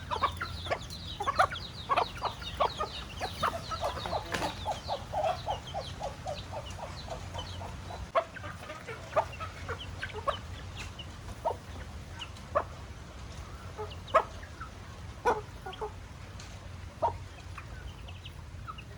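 Chickens clucking, a dense run of quick calls for the first several seconds that thins out to scattered single calls.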